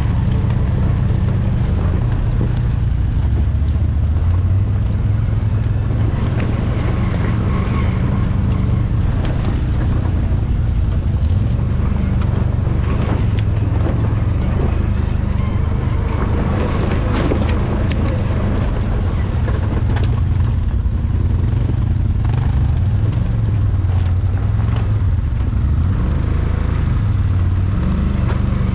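ATV engine running under way, its pitch rising and falling with the throttle, with scattered knocks and rattles from the rough ground.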